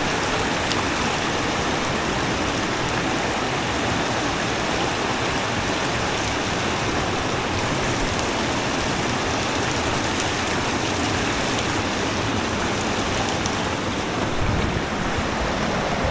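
Rushing water of a nearby stream, a steady, even noise.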